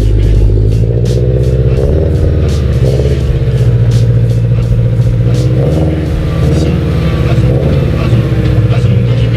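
Subaru BRZ's flat-four boxer engine running at idle through Tomei unequal-length headers and an Invidia N1 exhaust, a steady low exhaust rumble after a cold start, with background music over it.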